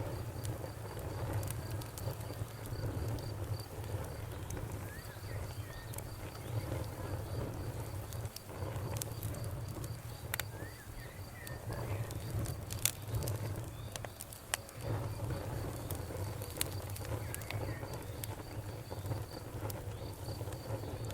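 Campfire crackling with scattered sharp pops over a steady low rumble, while a cricket chirps in a rapid, even trill.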